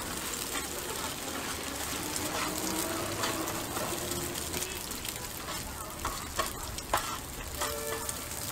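Eggs sizzling in hot oil on a flat-top griddle, a steady hiss. A metal spatula scrapes and taps on the griddle a few times in the second half.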